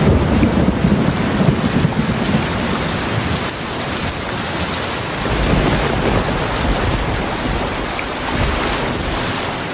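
Heavy rain falling steadily in a continuous hiss, with low rolling thunder rumbles: one swells at the start and another about halfway through.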